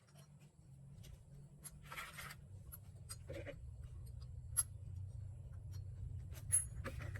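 Light clicks, taps and scrapes of hand tools and small metal parts being handled, with two sharper ticks. Under them a low hum starts at the outset and slowly grows louder.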